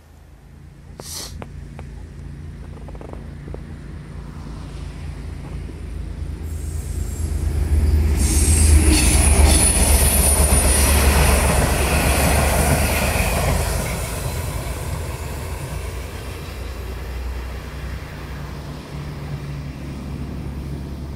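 V/Line diesel locomotive hauling passenger carriages passes by: the engine's low drone builds to its loudest about eight to thirteen seconds in, with a high wheel squeal on the curved track over the loudest part, then fades as the train moves away.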